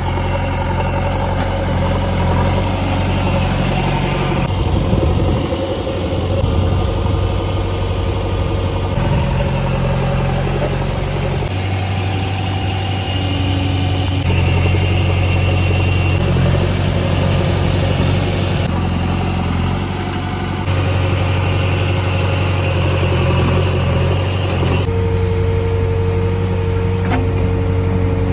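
Diesel engines of heavy machinery (a JCB backhoe loader and a farm tractor) running steadily, in a series of short clips that cut abruptly every few seconds.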